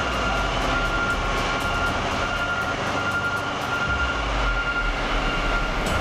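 Steady mechanical rumble of a heavy vehicle running, with a thin high tone that comes and goes.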